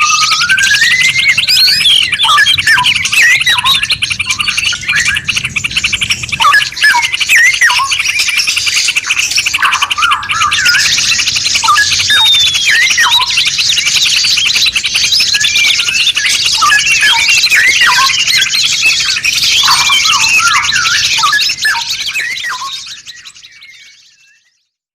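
Many songbirds singing at once in a dense layered mix of rapid chirps, trills and whistled glides. It fades out near the end.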